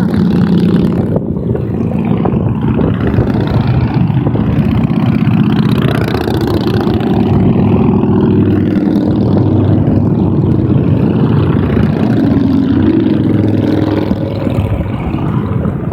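A long line of motorcycles riding past on a highway, their engines running loud and steady, with several exhaust notes overlapping and shifting as bikes go by.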